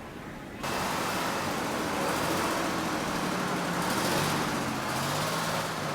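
Motor vehicle engine running with road noise, starting abruptly about half a second in.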